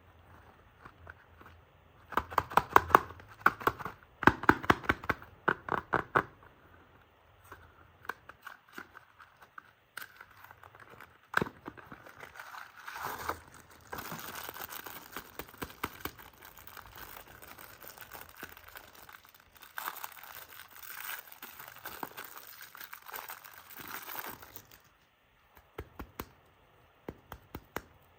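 Soap packaging being torn open and crinkled by hand: a burst of quick crackling tears a couple of seconds in, then a long spell of crinkling wrapper near the middle and end.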